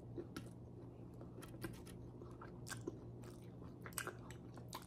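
Close-miked eating sounds: a person chewing and biting food with soft, scattered clicks of lips and teeth, over a faint steady low hum.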